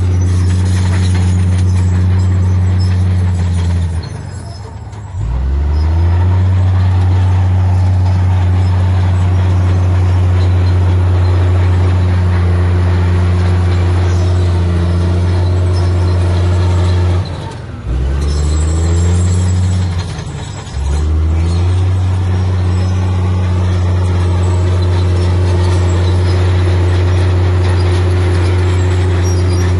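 Heavy diesel engine of an earthmoving machine running hard and steady. Three times its pitch sags sharply and then climbs back as the load comes and goes.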